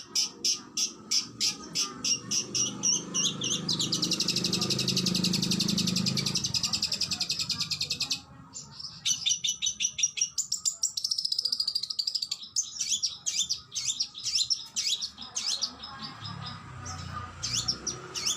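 Oriental magpie-robin (kacer) song: rapid high chirps, then a fast rattling trill lasting about four seconds. After a brief break comes a run of quick, varied whistled notes.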